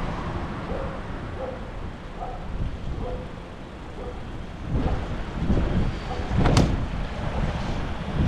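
Storm wind buffeting the microphone as a low rumble that swells into stronger gusts about five seconds in, with one sharp click partway through the loudest gust.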